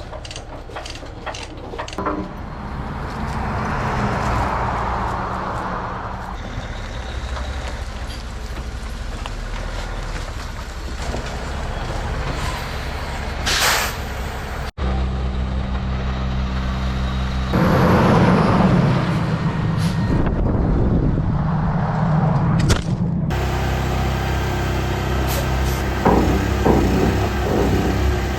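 A large hydraulic excavator's diesel engine running steadily, with several long hissing swells laid over it. The sound jumps abruptly about halfway through and again near three-quarters of the way, as between separate shots of the machine.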